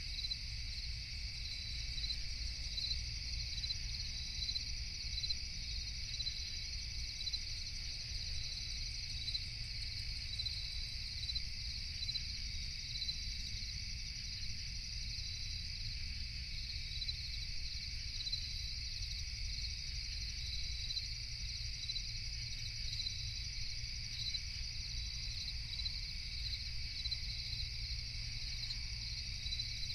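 Night chorus of crickets chirping steadily in regular repeating pulses, over a constant low rumble.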